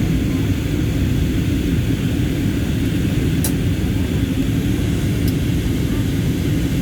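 Steady engine and airflow noise of an airplane in flight, heard from inside the cabin, with two faint clicks partway through.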